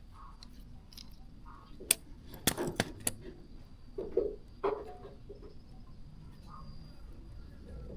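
A handful of sharp metallic clicks and knocks, the loudest cluster about two to three seconds in, as small metal parts are handled. Faint bird chirps come through now and then.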